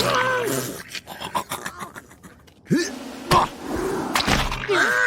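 Wordless cartoon voices grunting and exclaiming, with a few short knocks; the loudest knock comes about three and a half seconds in.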